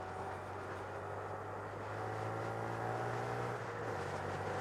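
Honda Grom's 125cc single-cylinder engine running under way, its pitch slowly rising, with a short dip about three and a half seconds in.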